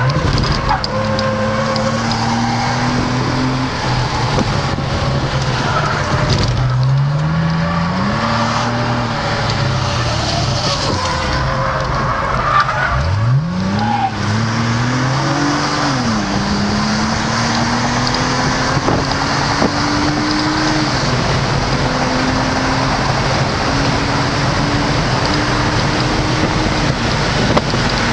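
A passenger car's engine heard from inside the cabin, accelerating hard on a fast lap: its pitch climbs several times and falls back at each gear change or lift, with one long steady climb about halfway through on a straight. Loud road, tyre and wind noise runs underneath.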